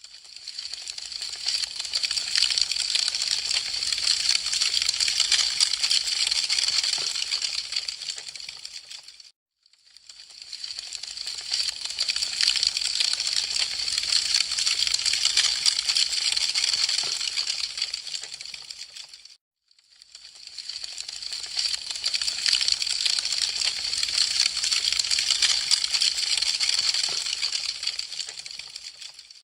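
Wood fire crackling and popping densely. The sound fades out to a brief silence and back in about every ten seconds, repeating the same stretch.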